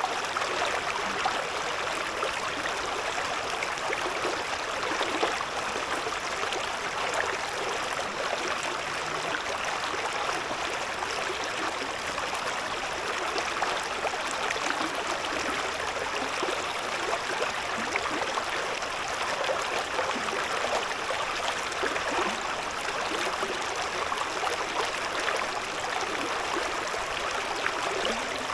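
Babbling of a shallow river: water running steadily, with a dense, fine texture of small splashes throughout.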